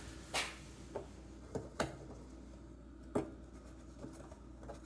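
A few light clicks and taps of hand work, spaced irregularly, over a steady low hum.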